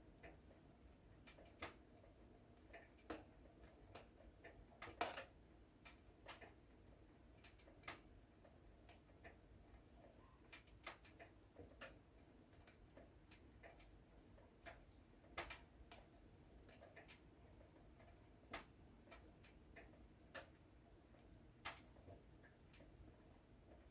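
Wood fire in a fireplace crackling softly: irregular sharp pops and snaps, a louder cluster about five seconds in, over a faint steady hiss.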